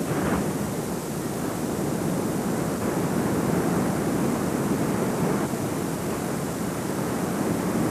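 Steady rushing of surf and wind, with no distinct events.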